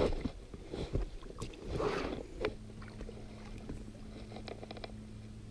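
Paddle strokes splashing in the water beside an inflatable kayak, about one a second, stopping about halfway through. A steady low hum starts as the strokes end.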